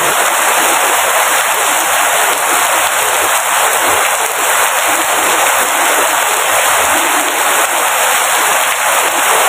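Rain falling steadily, a loud, dense, even hiss with no let-up.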